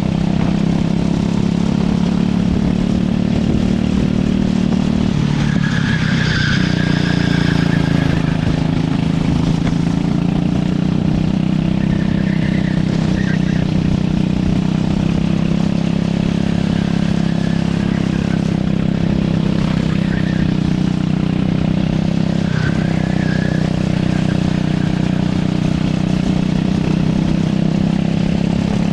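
A racing kart's engine running hard as it laps the track, with a steady note that rises and falls slightly. A few brief high squeals sound over it several times.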